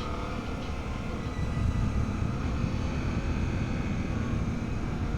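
Riding on a Suzuki V-Strom 800DE motorcycle, heard from a microphone inside the helmet: wind rush and engine noise blend into a steady low din. It gets louder about a second and a half in.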